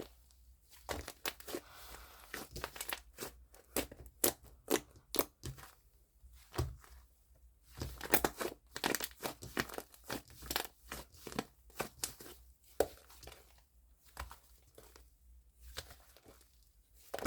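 Fluffy foam slime being squished and pressed by hand, giving irregular sticky crackles and small popping clicks in bursts.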